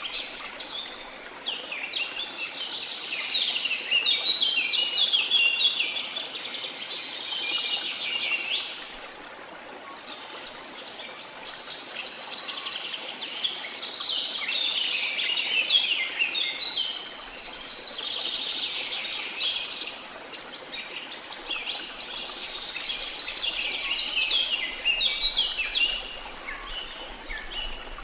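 Several birds singing at once, a busy chorus of quick chirps and trills over a faint steady hiss, easing off briefly about a third of the way in before picking up again.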